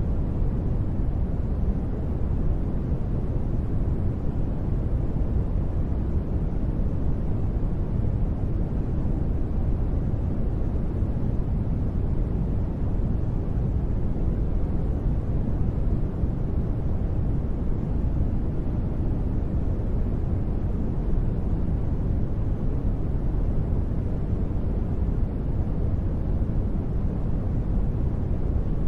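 Continuous steady noise generated for sleep, deep in tone: most of its energy sits low, with little treble and no changes or sudden sounds.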